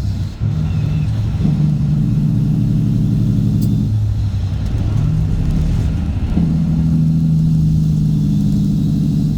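Straight-piped Cat C15 ACERT diesel in a Kenworth W900 semi truck running on the road. Its exhaust note steps between a lower and a higher pitch, rising at about one and a half seconds and again past six seconds, and falling near four seconds.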